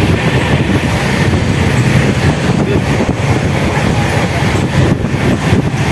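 Express passenger train running at speed, heard from inside the coach: a steady, loud rumble of the wheels on the track.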